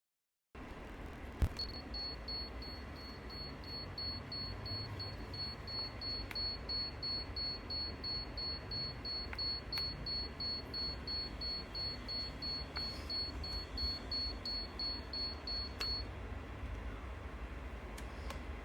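Espresso machine running: a click, then a high-pitched tone pulsing about three times a second over a low hum. The tone stops about sixteen seconds in while the hum goes on.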